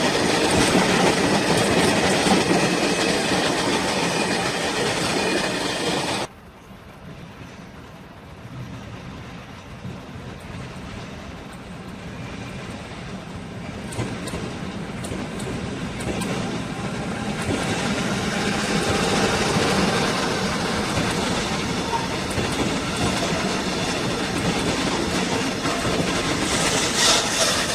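Train running along the track, wheels on the rails making a steady rumble with clickety-clack. The sound cuts off suddenly about six seconds in, then builds up again over the next ten seconds or so and stays loud.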